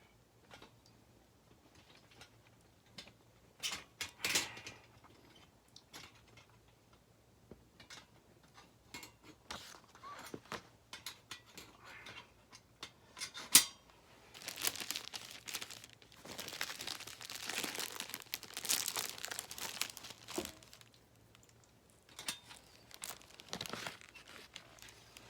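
Handling of a steel fire pit and its add-on frame: scattered clicks and knocks, one sharp knock about halfway through, then several seconds of crinkling.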